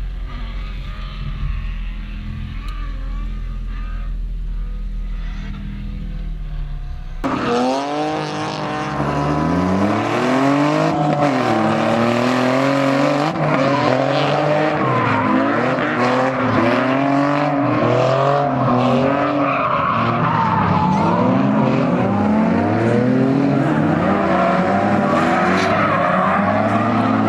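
A steady low hum for about seven seconds, then a drifting car's engine revving up and down repeatedly with tires squealing and skidding.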